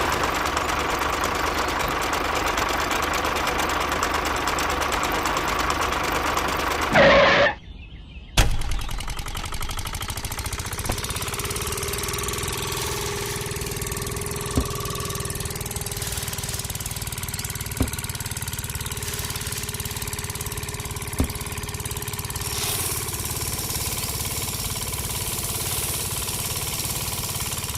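A steady engine sound for about seven seconds, ending in a brief louder burst and a short break. After the break a quieter engine-like running sound goes on, with a few single knocks.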